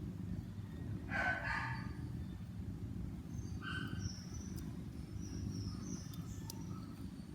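Kitten mewing: one drawn-out meow about a second in, then shorter high calls a few seconds later, over a steady low rumble.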